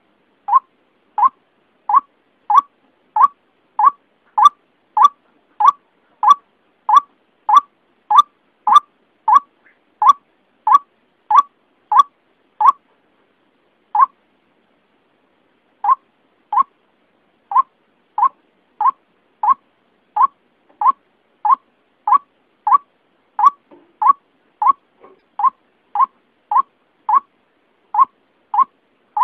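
White-breasted waterhen (ruak-ruak) lure call: short, sharp notes repeated about one and a half times a second, with a pause of a couple of seconds about halfway through.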